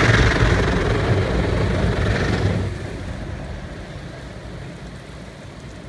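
Automatic car wash working over the car, heard from inside the cabin: a loud, even rush of water and wash machinery that dies down about two and a half seconds in and fades as the wash cycle ends.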